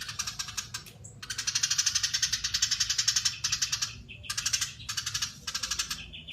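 Eurasian tree sparrow giving its long, fast chattering call (crecetan), with very rapid notes packed tightly together. It comes in several runs with brief pauses between them.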